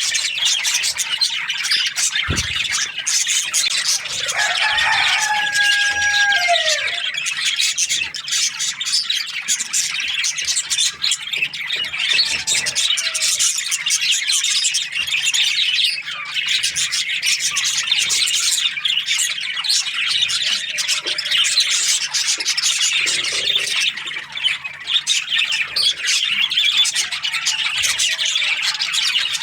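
A flock of budgerigars chirping and chattering continuously in a dense, high-pitched wash of calls. About five seconds in, one louder call with a lower, gliding pitch stands out. There is a brief low thump about two seconds in.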